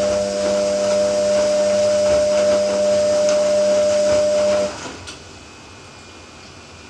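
Ariston AQXL95 washing machine running: a steady motor hum and whine over a rushing noise, with faint scattered clicks. The sound cuts off abruptly a little before five seconds in, leaving a low steady hum.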